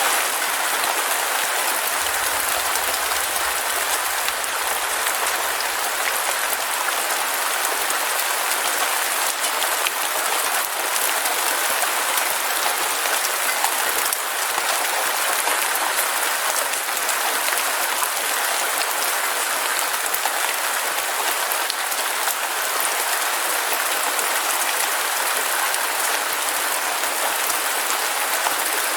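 Heavy rain falling steadily: a dense, even hiss of countless drops, unbroken throughout.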